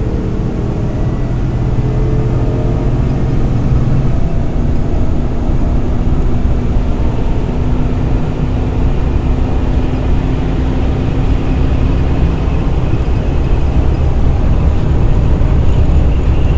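Pickup truck engines pulling hard with heavy road and wind noise, heard as a steady low drone. One engine note climbs slowly in pitch over several seconds, and the sound grows a little louder near the end.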